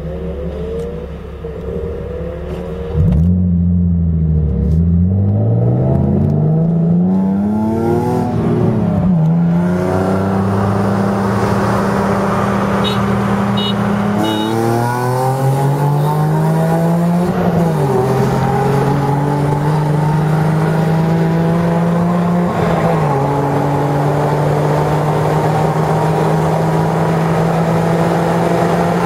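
Car engine, heard from inside the cabin, pulling hard from about three seconds in. Its pitch climbs and drops back at each of several gear changes, then settles to a steady drone at speed.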